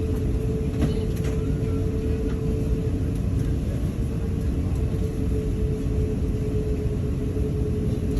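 Steady cabin noise inside an Airbus A380: a low rumble with a constant hum from the aircraft, and a couple of faint clicks about a second in.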